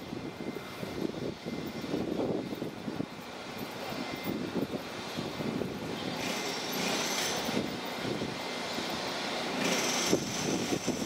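Taiwan Railway Chu-Kuang Express passenger train at a station, a steady rumbling noise, with a hiss that swells about six seconds in and again near the end.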